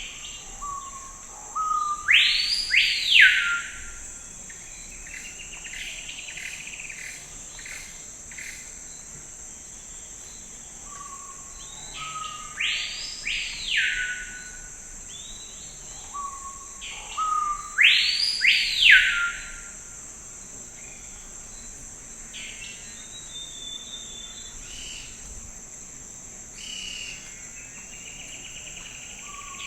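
Forest ambience: a bird sings a loud arching phrase three times, about ten seconds apart, with fainter bird calls in between, over a steady high-pitched drone of insects.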